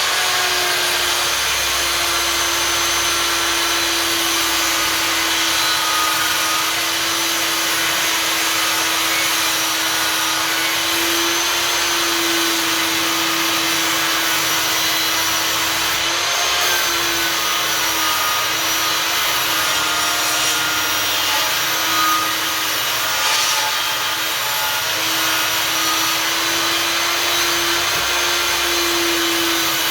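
Einhell table saw running steadily while ripping wooden boards, a constant loud whine with a steady tone that wavers slightly as the blade takes the cut.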